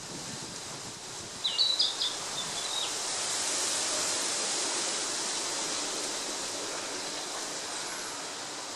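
A male Narcissus flycatcher sings one short whistled phrase of quick, stepping notes about a second and a half in, over a steady rushing background noise.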